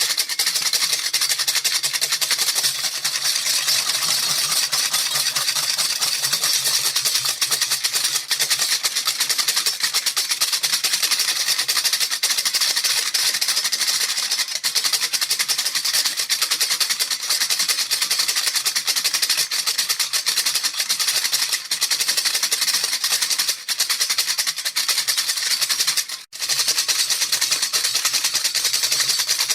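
A baby rattle shaken fast and without pause: a dense, steady, hissy rattling of small beads, with a momentary break near the end.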